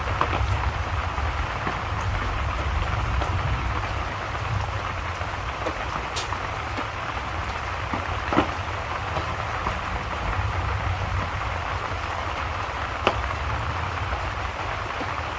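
Steady rain ambience with a low rumble underneath, broken by a few sharp pops, the loudest about eight and thirteen seconds in.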